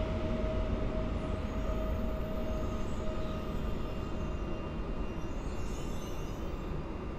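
Electric commuter multiple units running through the station: a Pesa Elf rolls in along the platform as another train pulls away. A steady rumble with a whine that fades after about four seconds.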